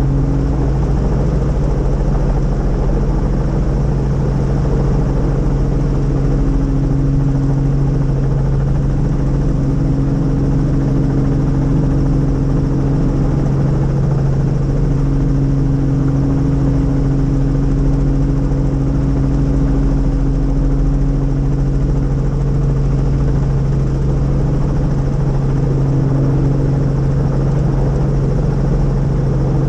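Helicopter in steady flight, a loud even drone with a steady low hum and a fainter tone above it that fades in and out.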